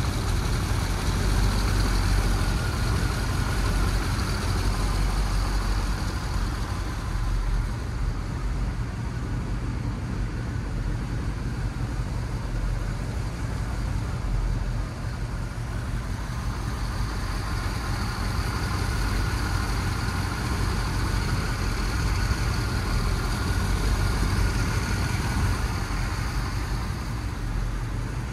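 1978 Chevrolet Corvette's 350 small-block V8 idling, a steady low rumble with no change in speed.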